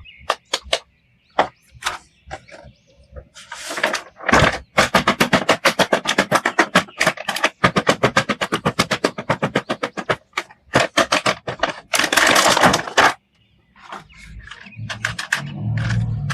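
Hands working on plastic toys: a few sharp clicks, then long runs of rapid, even scratching strokes, and a denser rustling burst about twelve seconds in.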